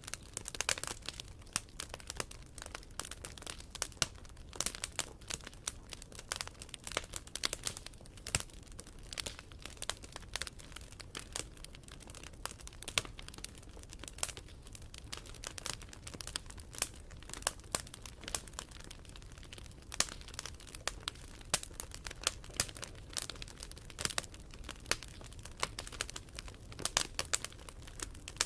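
Wood fire crackling steadily, with many sharp irregular pops and snaps over a low hiss of burning.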